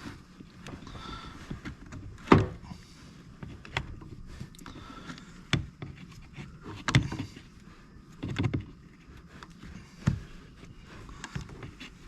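Irregular clicks and knocks of small parts and tools being handled and fitted while a Stihl MS390 chainsaw's carburetor area is reassembled. The loudest knock comes about two seconds in, with several more spread through.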